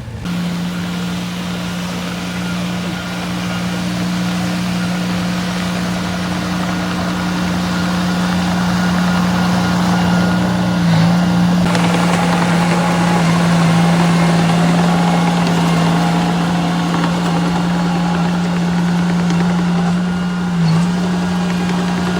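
Diesel engine of earthmoving machinery running steadily at a constant speed, with a strong even hum.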